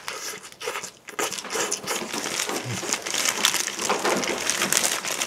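Close-miked biting and chewing of a bulgogi burger, with the paper wrapper crinkling in the hand: an irregular, crackly run of mouth and paper noise.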